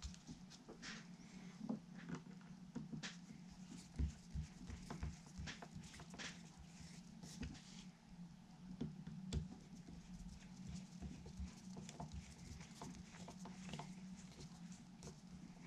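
Faint, irregular light taps and clicks of hand work on an electric guitar during assembly: small tools and parts being handled on a workbench, with a stronger knock about four seconds in, over a low steady hum.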